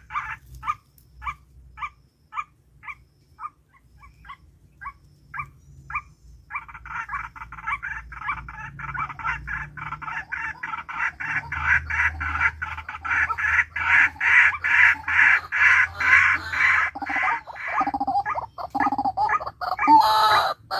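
Bird calls: short single notes repeated about twice a second, then from about six seconds in a rapid, continuous chatter of calls that grows louder.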